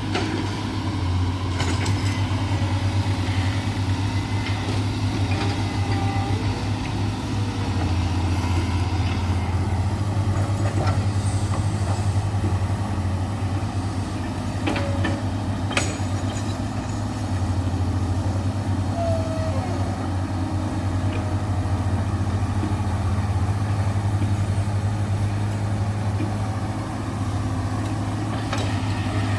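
Heavy diesel engines of excavators running steadily, their low drone swelling and easing every several seconds as the machines work, with two sharp knocks about halfway through.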